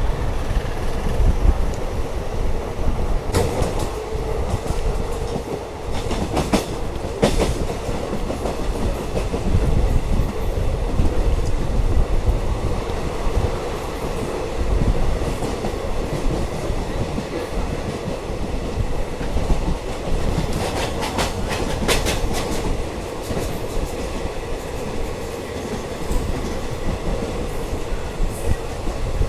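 Wodeyar Superfast Express coaches running along the line, wheels rumbling steadily on the rails. Clusters of sharp clickety-clack come about three to seven seconds in and again about twenty-one seconds in, as the wheels pass over rail joints.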